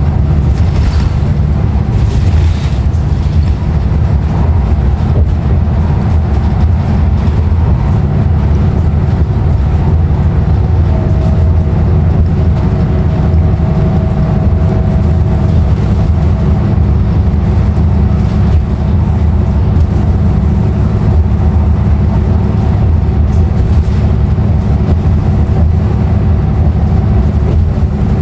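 Interior of a 2016 Nova Bus LFS under way: its Cummins ISL9 diesel engine and road noise make a steady low rumble. A faint whine comes up briefly near the middle.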